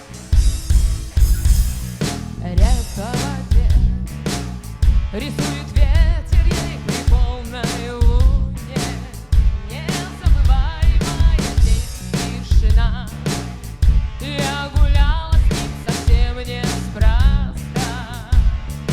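Rock band playing: drum kit keeping a steady beat over bass and guitar, with a wavering, bending lead melody line on top.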